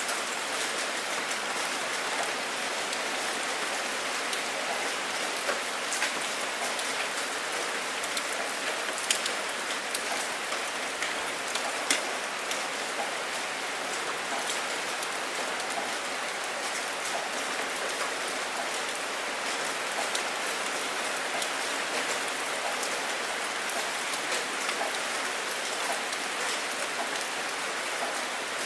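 Steady, even rain, with single drops striking as sharp ticks through it; two louder drop hits come about nine and twelve seconds in.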